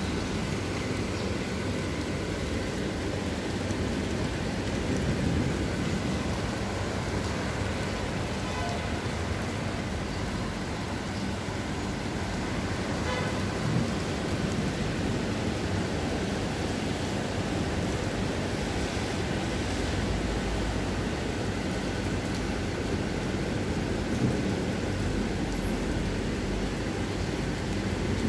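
Heavy rain pouring steadily onto pavement and building walls, a continuous hiss of water. A low rumble swells in the last several seconds.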